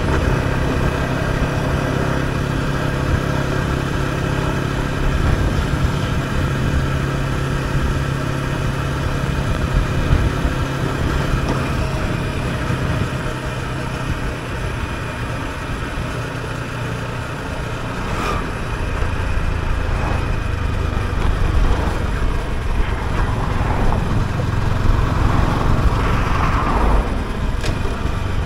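Yamaha R125's 125 cc single-cylinder four-stroke engine running while the bike is ridden. It holds a steady note, eases off around the middle, then rises in pitch again several times in the last ten seconds as the rider accelerates.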